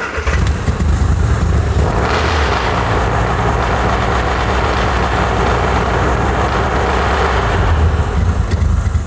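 Mini Cooper S A-series four-cylinder engine cold-started on full choke: a couple of beats of the starter motor, then it bursts into life and runs at a fast idle of about 2,000 rpm. Racing like this before the oil has got round is the kind of start that, by the owner's account, wears this engine.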